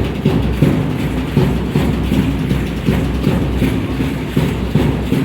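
Drumming for an Aztec dance: a dense run of repeated drum strokes, loud and continuous.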